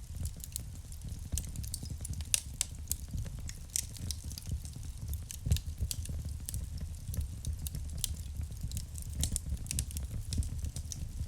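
Wood fire in a fireplace crackling, with irregular sharp pops and snaps over the low, steady rumble of the burning logs. The loudest pop comes about five and a half seconds in.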